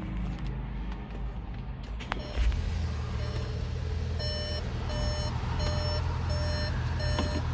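A 2021 Volkswagen Tiguan's turbocharged four-cylinder engine is push-button started a little after two seconds in, a click then a brief surge of cranking, and settles into a steady idle. From about four seconds in, the car sounds an evenly repeated electronic warning beep, about two beeps a second.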